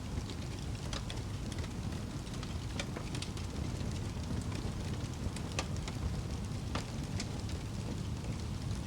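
Fireplace crackling: irregular sharp crackles and pops of burning wood over a steady low rumble of flame.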